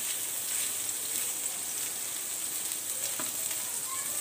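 Chhana (fresh cheese curds) sizzling steadily as it fries in ghee in a nonstick pan, stirred with a silicone spatula. The curds are being fried briefly to drive off their raw smell.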